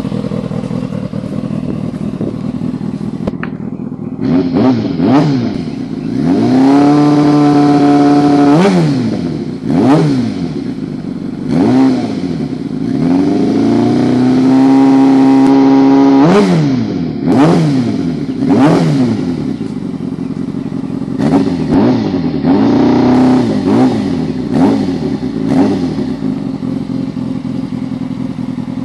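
2002 Kawasaki ZX-6E's inline-four engine breathing through stock mufflers cut down into gutted stubby cans. It idles steadily at first, then is revved in a string of quick throttle blips, with two longer held revs of about two seconds each, settling back to idle between them.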